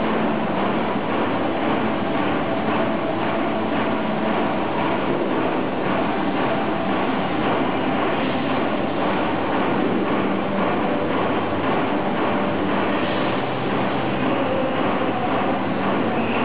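CNC laser cutting machine running on sheet metal: a steady, unbroken mechanical noise with a faint hum.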